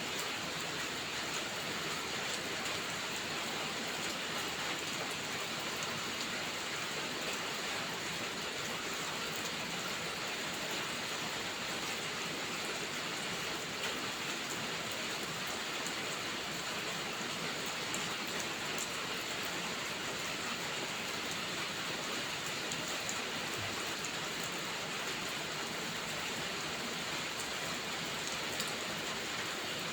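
Steady rainfall, an even hiss with a few faint scattered ticks of drops.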